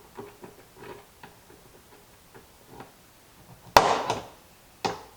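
Light ticks and taps, then two sharp hammer strikes on a punch about a second apart near the end, driving a rivet's leftover centre post out of the lid ring.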